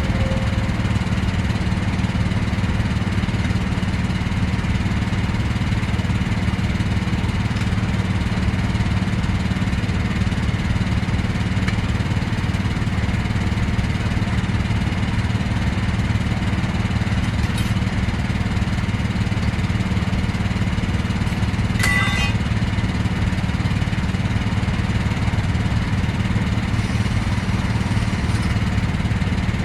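An engine running steadily at idle, with one short click about 22 seconds in.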